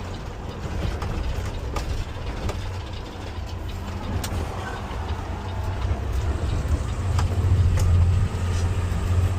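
Garbage truck's engine running while the truck drives, a steady deep rumble that grows louder over the last couple of seconds, with a few light clicks and rattles.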